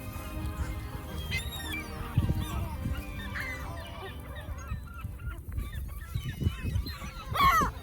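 A flock of birds calling over one another in many short calls, with one loud call near the end, over a low rumble.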